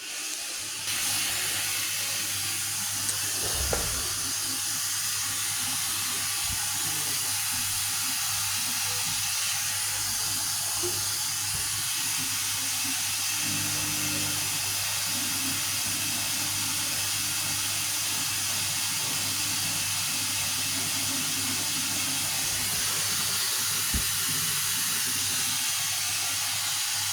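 Vestel CM8710 8 kg washing machine on its final rinse: a steady hiss of water, likely from the machine filling, over a low hum.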